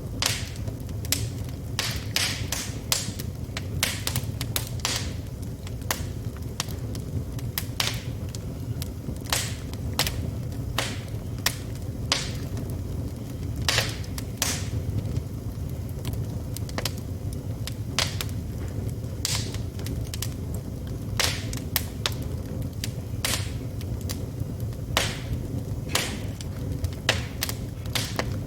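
Wood fire burning in a fireplace: irregular crackles and sharp pops, several a second, over a steady low rumble of the flames.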